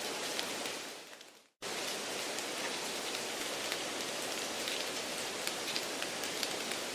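Steady rain-like hiss with a fine patter, an added background-noise track. It fades out about a second in, drops to silence briefly, and cuts back in abruptly, then holds steady.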